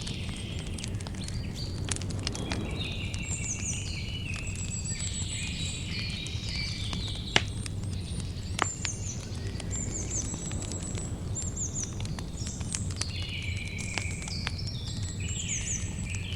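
Campfire crackling with scattered small snaps and two louder pops about halfway through, over a low steady rumble. Forest birds sing in repeated phrases of quick high falling notes throughout.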